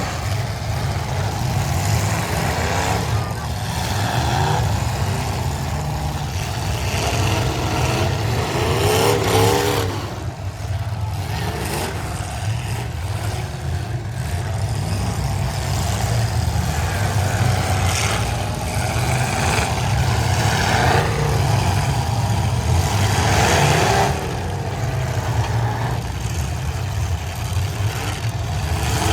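Demolition derby cars' engines running and revving, several at once, with pitch repeatedly climbing and falling over a steady low rumble.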